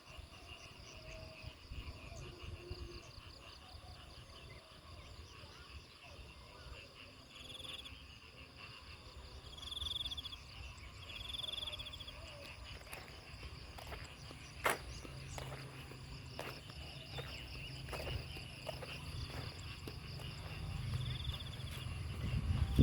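Insects chirping steadily, with a few short, louder chirps scattered through and a single sharp click about two-thirds of the way through.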